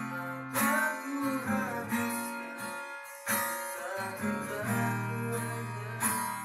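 Acoustic guitar playing a song, with chords strummed and left to ring and a new strong strum about every three seconds.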